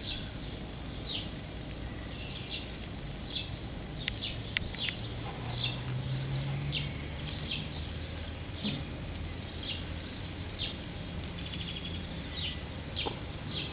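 Small birds chirping in the background: short high chirps repeated about once or twice a second, with a brief rapid trill about twelve seconds in, over a low steady hum.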